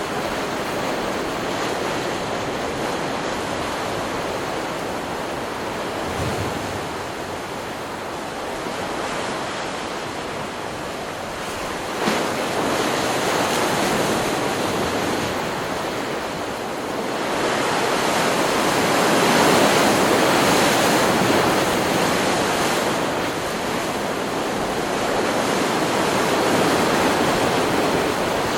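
Stock recording of ocean surf: a continuous rush of breaking waves that swells suddenly about twelve seconds in and is loudest past the middle.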